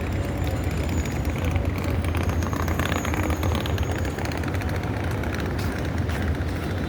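Steady city street traffic: cars and buses passing with a constant low rumble.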